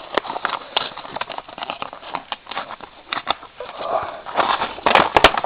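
A package being opened and handled by hand: rustling and crinkling of packaging with many small clicks, busier and louder near the end.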